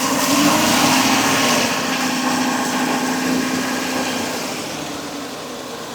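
Ford 6.2-litre gasoline V8 engine, which has a misfire on cylinder 3, revved up lightly from idle about half a second in, then held and slowly easing back down.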